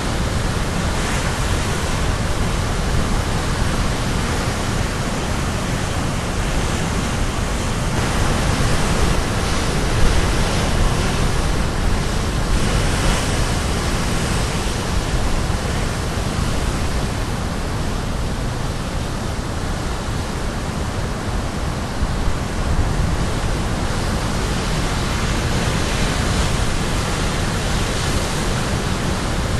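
Sea surf breaking on the shore: a continuous dense wash of waves with gentle swells in level, with some wind on the microphone.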